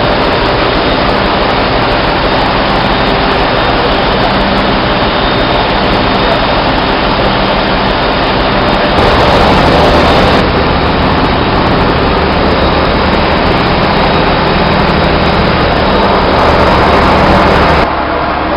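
Loud, steady machinery running, a dense noise with a constant low hum. It steps up suddenly about halfway through and drops off just before the end.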